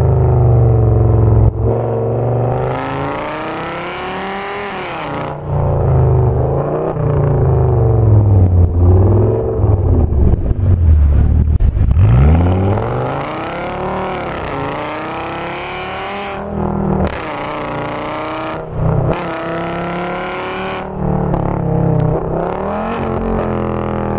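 Audi S8's V10 engine through a loud Meisterschaft aftermarket exhaust, driven hard: the engine note repeatedly climbs under acceleration and drops sharply at each shift or lift off the throttle, with several sudden breaks in the sound.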